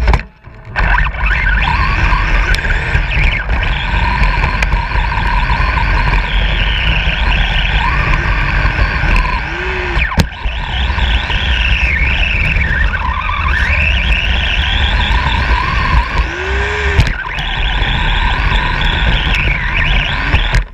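A truck being driven hard off-road, its motor's pitch rising and falling again and again over a constant low rumble, with a brief break in the sound just after the start.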